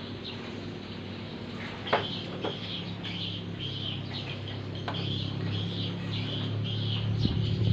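Small birds chirping repeatedly, with two sharp clicks about two seconds in. A low engine hum grows louder toward the end.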